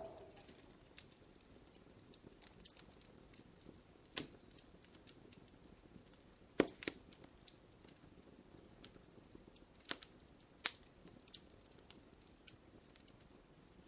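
Wood fire crackling in a fireplace: irregular snaps and pops over a soft hiss, with a few louder pops scattered through.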